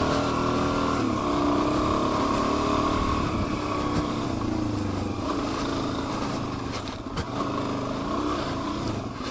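Dual-sport motorcycle engine under changing throttle, its pitch rising and falling as the rider works through mud, then easing off near the end.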